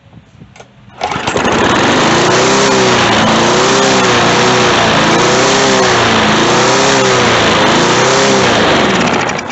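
Briggs and Stratton 148cc mower engine starting about a second in and running loud, its speed rising and falling in about five even waves, on reworked throttle and idle-control linkage.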